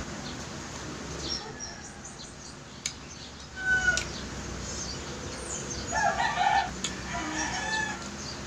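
Birds chirping and calling: quick high chirps, then louder calls about four and six seconds in, with one sharp click near three seconds.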